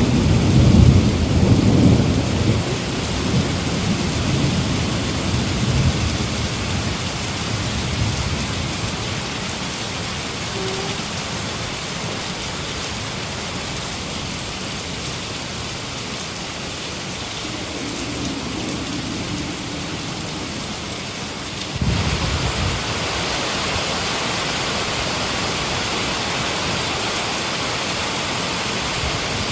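Heavy rain hissing steadily, with a rolling thunder rumble at the start that dies away over several seconds. About two-thirds through there is a short low rumble and the rain suddenly turns louder and hissier.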